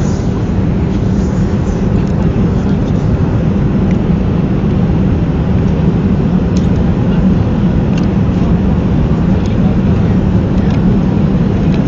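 Steady cabin drone of a Boeing 737-300 airliner in flight: engine and airflow noise, with a low hum and a few faint ticks over it.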